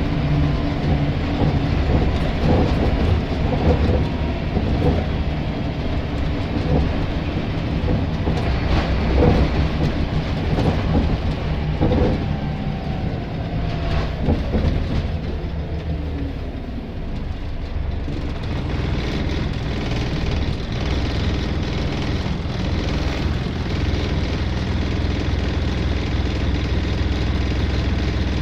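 Scania L94 bus's diesel engine running, with busy rattling. Around the middle the engine note falls away as the bus slows, and it then settles to a steady idle.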